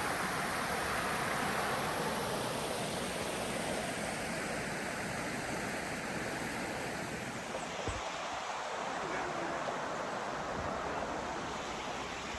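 Steady rush of flowing water, an even hiss, with a single soft bump about eight seconds in.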